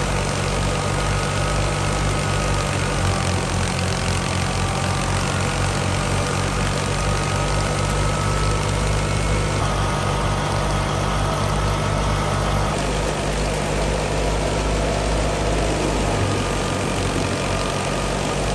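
Fiat 480 tractor's diesel engine running steadily under load, driving a wheat thresher, with a fast low throb and faint wavering whines above it.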